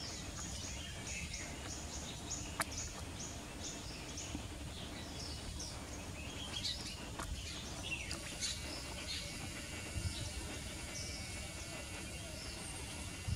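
Birds calling in the trees: a run of short, high notes repeated evenly two or three times a second for the first few seconds, then scattered chirps, over a steady low outdoor rumble. A single sharp click comes about two and a half seconds in.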